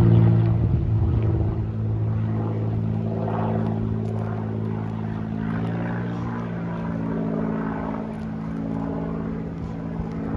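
Propeller airplane's piston engine droning steadily, loudest at the start and slowly fading as it moves away.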